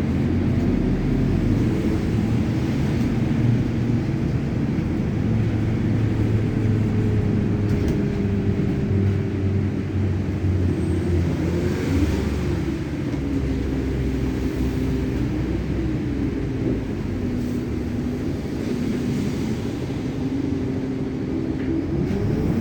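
Road traffic: vehicle engines running over a steady low rumble, their pitch rising and falling as they speed up and slow down, most noticeably about halfway through and near the end.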